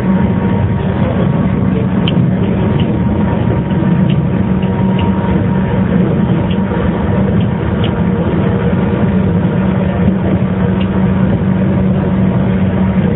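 JR 115 series electric train motor car running at a steady pace: the even hum of its traction motors over the rumble of wheels on rail, with a few light clicks.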